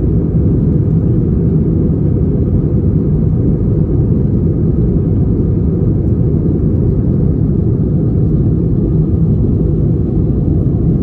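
Steady low cabin noise of an Airbus A320 in flight, engine and airflow rumble heard inside the cabin at a window seat.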